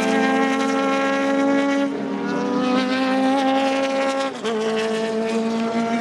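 Racing car engine running hard at high revs, its note held steady, then dropping sharply about four seconds in and climbing again, as at a gear change under acceleration.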